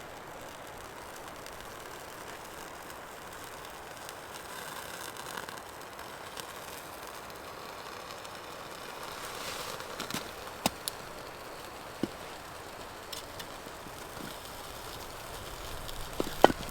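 Steady rushing background noise, with a few sharp clicks and crackles scattered through and a small cluster of them near the end.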